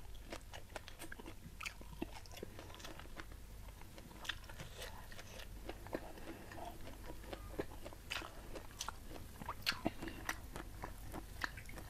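A person chewing a mouthful of food close to a clip-on microphone: faint, irregular soft crunches and wet mouth clicks, a few louder ones in the second half.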